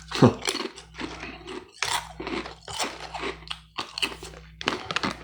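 Close-up chewing with repeated crisp crunches of crunchy food in the mouth, irregular and continuing throughout.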